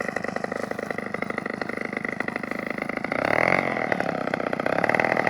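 52cc two-stroke brush-cutter engine powering a styrofoam model airplane, running steadily at speed, then growing louder about three seconds in as its pitch shifts.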